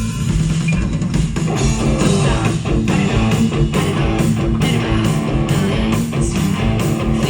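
Live rock band playing an instrumental passage: strummed guitar over electric bass and a steady drum beat.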